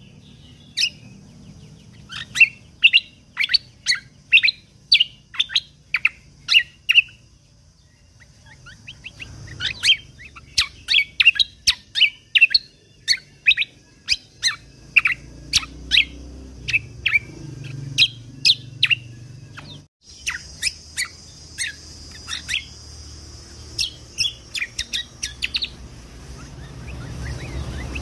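Kecial kombok (cucak kombo) songbird singing rapid runs of short, sharp chirping notes, several a second, in the fast-fire "tembakan" style. The song breaks off briefly about a quarter of the way through, then resumes.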